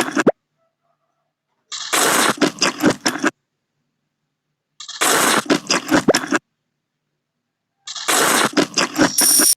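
Three bursts of loud, wet, crackly slurping and chewing of instant noodles, each about a second and a half long, with abrupt cuts to dead silence between them.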